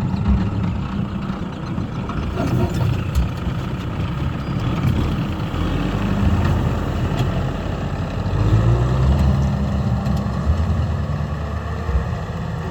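Kubota M6040 tractor's four-cylinder diesel engine running, a steady low drone that swells a little about two-thirds of the way through.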